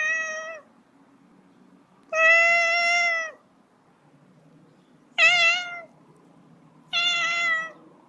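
Cat meowing four times, each meow a short drawn-out call, the third with a wavering pitch, over a faint low hum.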